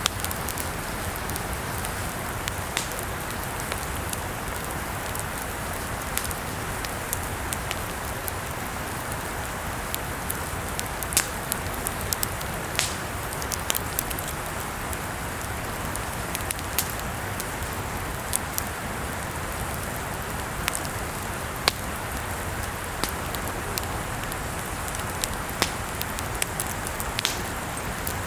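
Campfire burning: a steady hiss with frequent sharp crackles and pops at irregular intervals.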